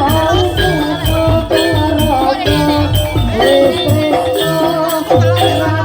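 Live Jaranan Dor ensemble music: dense drum and percussion strokes under a wavering melody line, with a sustained low gong-like tone near the end.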